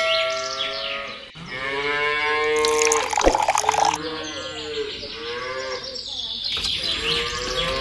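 Cows mooing: several long moos one after another, some overlapping.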